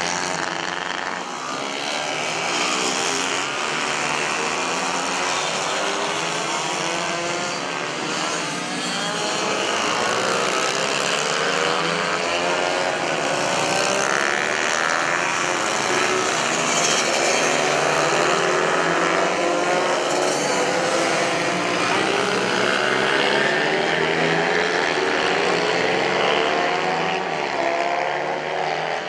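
Several mini-bike engines racing together, their pitches rising and falling and overlapping as the riders rev up and shift.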